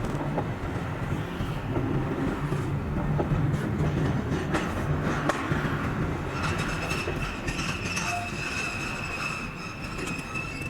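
Steady low rumble of a car driving on the road, sped up to double speed, with scattered clicks. About six seconds in, a steady high whine joins it.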